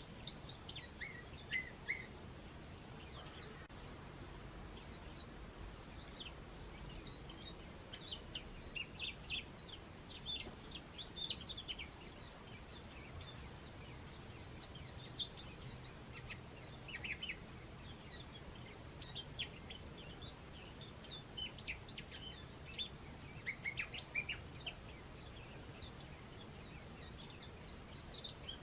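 Small garden birds chirping: many short, high calls in loose clusters, busiest from about a third of the way in and again toward the end, over faint low background noise.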